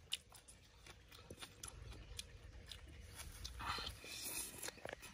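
Close-up chewing and biting of cooked leafy greens, with many small wet mouth clicks and soft crunches, and a longer slurp as stems are drawn into the mouth about three and a half seconds in.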